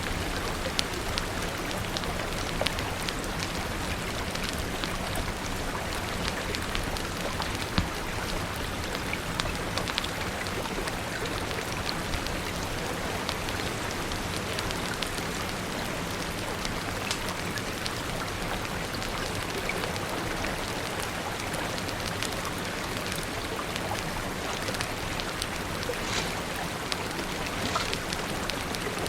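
Steady rain falling, with scattered sharp crackles from a wood fire mixed in.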